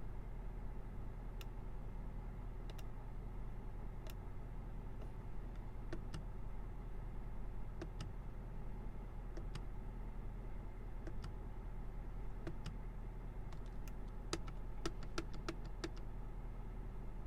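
Sharp mechanical clicks, like switches or buttons being pressed, over a steady low hum. Single clicks come every second or so, then a quick run of about a dozen clicks near the end.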